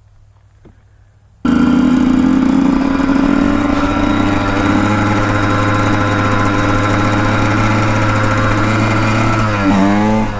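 Dirt bike engine running at a steady speed, cutting in abruptly about a second and a half in, with a brief wavering change of pitch near the end.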